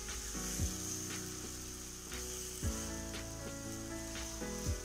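Chopped onions, curry leaves, green chillies and ginger-garlic paste sizzling in hot oil in a kadai while a wooden spatula stirs them. The paste is being fried until its raw smell is gone. Three dull low thumps come about two seconds apart.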